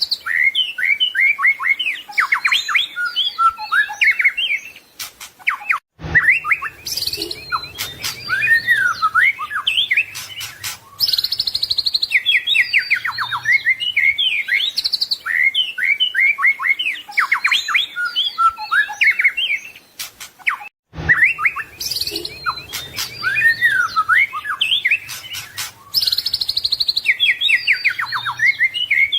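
White-rumped shama singing a fast, varied song of rapid chirps, trills and whistled phrases, packed with phrases mimicked from other birds. The song breaks off briefly twice, about six seconds in and about twenty-one seconds in.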